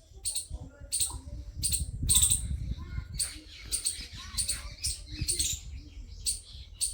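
Small birds chirping in quick, high, repeated calls, with a steady low rumble underneath.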